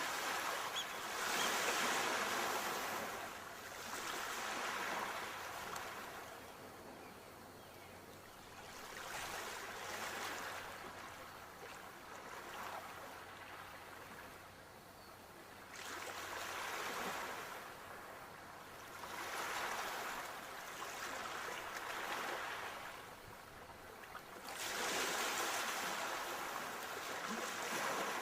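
Sea waves washing onto the shore, the surf swelling and fading every few seconds with a hissing wash.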